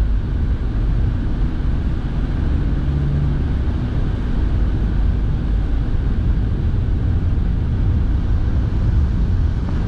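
Steady cabin noise of a moving car: engine and road rumble, with the car's heater fan blowing.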